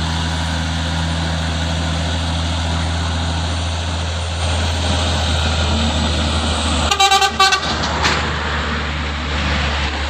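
Truck engine running steadily under load, with a vehicle horn honking in a few quick toots about seven seconds in.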